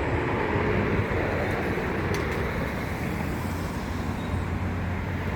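NI Railways Class 3000 diesel multiple unit approaching through the station, a steady engine drone and rumble that grows louder over the first second and then holds.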